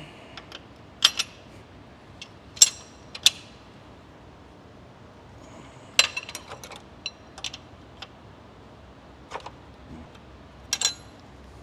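Hand tools clicking and clinking against metal car parts: a dozen or so separate sharp clicks spread out, with a small cluster about six seconds in and another near the end.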